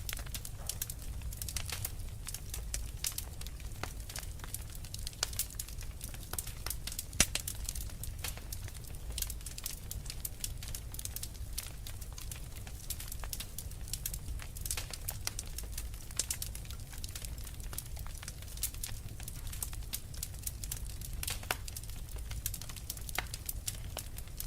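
Wood fire in a fireplace crackling steadily, with dense irregular pops and snaps over a low rumble of the flames, and one louder pop about seven seconds in.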